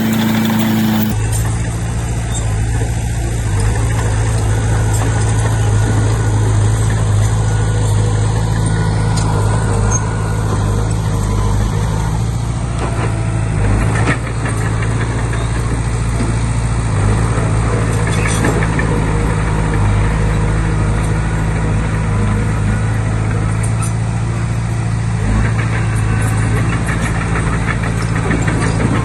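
Komatsu D20P bulldozer's diesel engine running steadily, with a few sharp knocks and clanks along the way.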